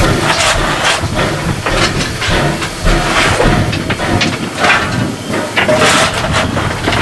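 Steam hissing from the steam locomotive Ww 644, heard from the cab, in loud, uneven bursts about every half second to second over the running noise of the engine.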